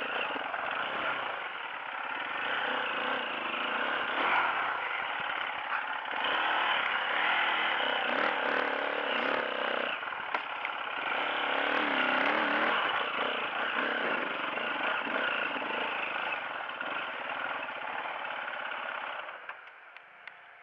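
Off-road motorcycle engine running under load on a trail climb, the revs rising and falling with the throttle. The engine sound drops away sharply near the end.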